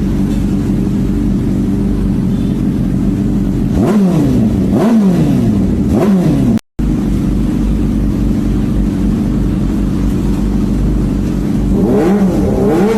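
Big motorcycle with an aftermarket racing exhaust idling, with quick throttle blips that rise and fall back to idle, three in a row partway through and more near the end. There is a short break between two clips.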